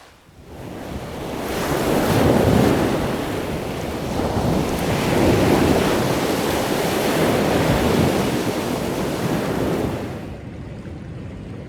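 Waves surging and washing over a rocky shore, swelling twice and easing off near the end, with some wind.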